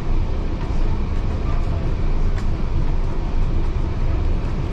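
Heritage railway carriage running along the track, heard from inside: a steady, deep rumble of wheels on rail with a light click about two and a half seconds in.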